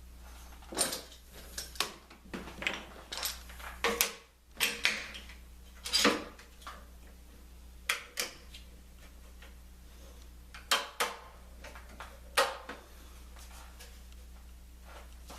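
Metal clamps clicking and clanking as they are set and tightened around a glued wood lamination, in irregular knocks with pauses between, thinning out over the second half.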